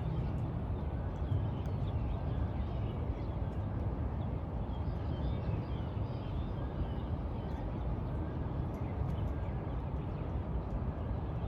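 Outdoor ambience: a steady low rumble with faint, scattered high chirps, like small birds calling.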